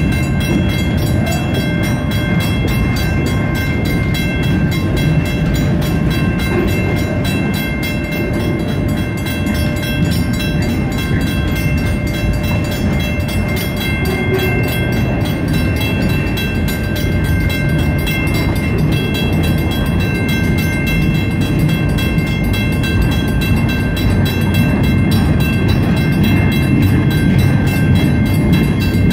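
Long freight train of flatcars loaded with trailers rolling past at a steady pace: a steady low rumble with the clatter of wheels over the rails, growing a little louder near the end. A steady ringing tone sits above it, fitting the grade-crossing bell at the lowered gates.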